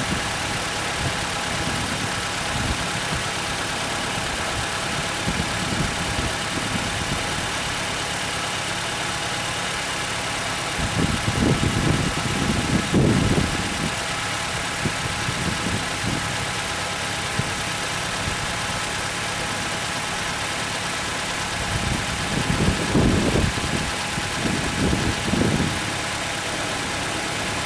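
Nissan FJ20 twin-cam four-cylinder engine of a Skyline RS idling steadily. Twice, about 11 and 23 seconds in, a louder, uneven low rumble rises over the idle for a couple of seconds.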